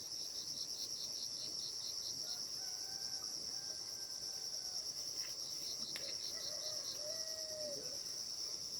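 Crickets chirring in a steady high-pitched drone. A second insect's rapid pulsing chirp, about four a second, joins it for the first couple of seconds. A few faint short gliding calls come through in the middle.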